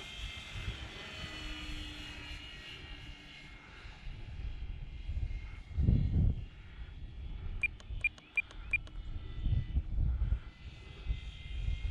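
Electric motor and propeller of a Durafly Bf 109E RC warbird whining in flight, thin and distant, its pitch wavering as it speeds up and passes. Low wind rumble on the microphone comes and goes. About two-thirds of the way through, a quick run of about seven short high beeps sounds from the radio transmitter's trim switch as the out-of-trim plane is trimmed.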